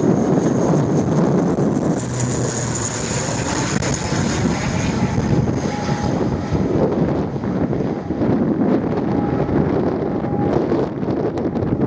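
Strong wind buffeting the microphone, over the engines and propellers of an ATR 72-212A turboprop airliner as it lands. A high whine swells about two seconds in and fades away a few seconds later.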